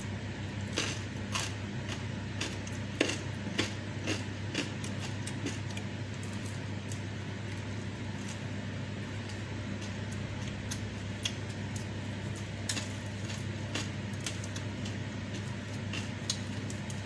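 Close-up chewing of raw young jengkol beans and food eaten by hand: a run of sharp crunches in the first few seconds, then scattered softer mouth clicks. A steady low hum runs underneath.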